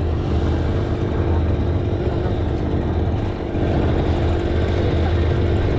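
An engine running steadily at an even speed, a continuous low hum.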